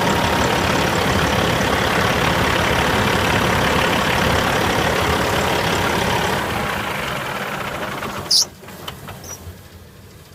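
Cat C15 diesel engine of a 2009 Western Star 4900SA truck idling steadily, fading after about six seconds. About eight seconds in there is a single sharp bang, after which the engine is much quieter.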